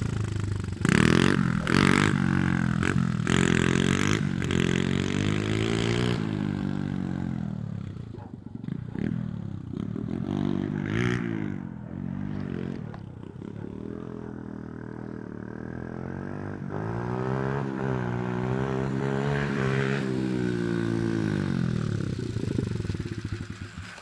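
Pit bike engine revving in short, sharp blips for the first few seconds, then running up and down through the revs in longer swells, dropping away near the end.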